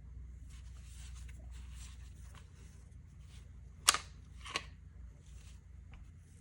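Hands handling an Umarex Glock 17 Gen5 CO2 pellet pistol: soft rustling, then two sharp clicks about two-thirds of a second apart near the middle, and a faint click later.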